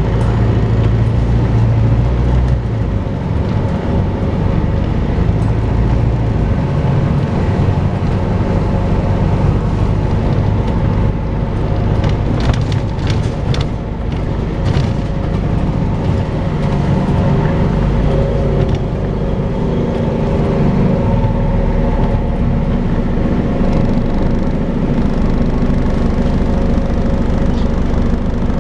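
Volvo B5LH hybrid double-decker bus running, with the steady vacuum-cleaner-like whine that bus enthusiasts call hoovering. A short patch of clicks or rattles comes about halfway through.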